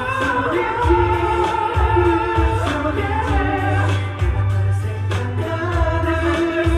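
Live concert performance of a K-pop ballad: singing with held, gliding notes over a backing track with a heavy, pulsing bass.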